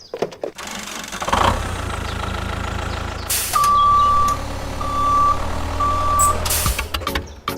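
Truck engine running steadily while a reversing alarm beeps three times, the first beep longer than the other two. A short hiss of air comes just before the beeps and again just after them.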